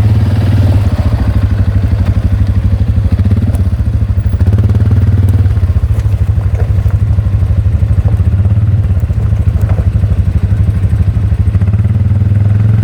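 Quad bike engine running steadily at low revs with a fast, even pulse, and a few light knocks over it.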